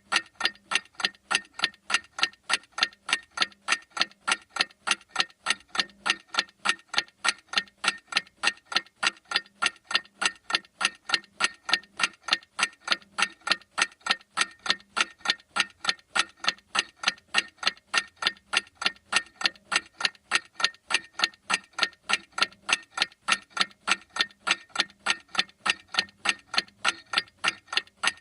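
Clock ticking steadily, an even run of sharp ticks, several a second.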